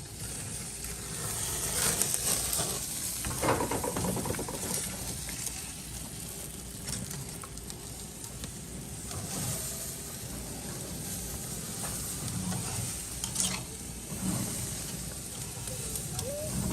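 Ribs sizzling on a grill: a steady hiss with a few brief knocks.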